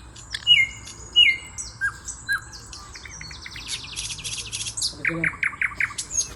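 Several small birds chirping and calling over one another with short whistled notes, a fast buzzy trill about halfway through, and a quick run of chirps near the end.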